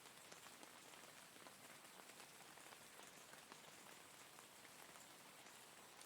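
Faint steady rainfall: an even hiss of rain with many small drop ticks scattered through it.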